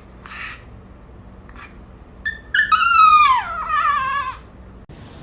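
A dog sings on request: one drawn-out, wavering howl that slides down in pitch, starting about two and a half seconds in and lasting nearly two seconds. A couple of soft short noises come before it.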